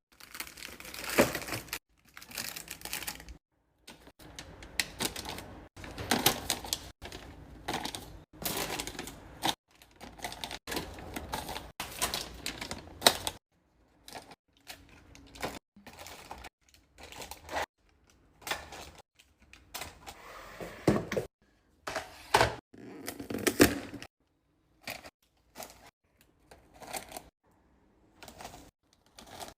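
Food containers and packaging being handled and set down while restocking a fridge: an irregular run of clicks, knocks and short rustles, with brief silent gaps between them.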